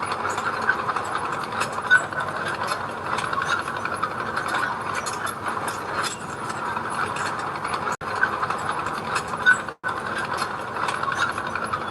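Mini bulldozer's engine running steadily under work, with rapid metallic clicking and rattling throughout, cut off twice near the end.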